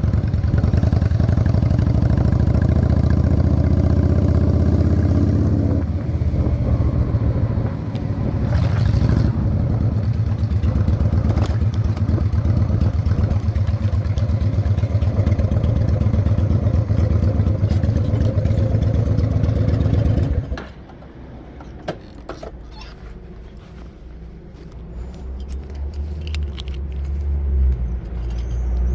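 Honda Shadow 600 chopper's V-twin engine running on the move, with a shift in its note between about six and nine seconds. About twenty seconds in it stops abruptly, leaving a few light clicks and clatters, and a low engine rumble builds near the end.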